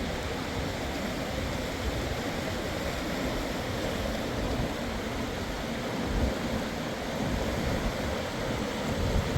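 Rushing river water, a steady even rush, with wind buffeting the microphone in irregular low gusts.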